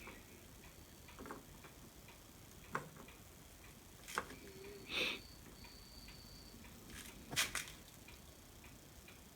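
Faint, scattered clicks and taps, about six of them, as the LG DM5540 mini hi-fi's controls and AUX jack are handled, with a faint high whine for about two seconds midway. No music plays: the set gives no sound on its AUX input.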